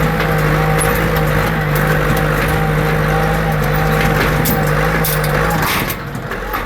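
Tractor engine running at a steady speed, then its tone cuts off near the end.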